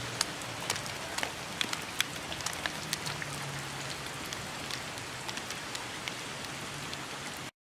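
Steady rain falling, with many separate drops ticking sharply close by. The sound cuts out abruptly near the end.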